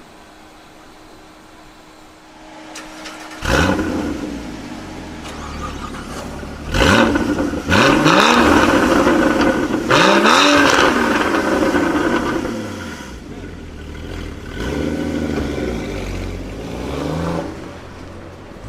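A sports car's engine bursts into loud revving about three seconds in. It then accelerates hard, its pitch climbing steeply and dropping back several times as it shifts up through the gears. Near the end it runs quieter, with a few lighter rises and falls in pitch.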